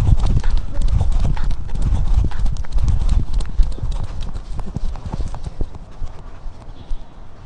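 Rapid, irregular knocking and thumping over a low rumble, dying away over the last couple of seconds: a body-mounted camera being jostled as the animal carrying it moves.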